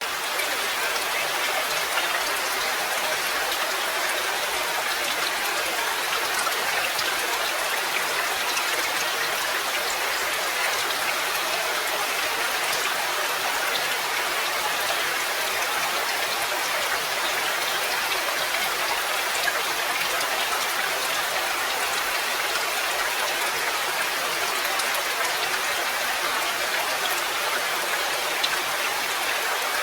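Steady rain falling: an even hiss of many drops, with fine individual drop taps scattered through it.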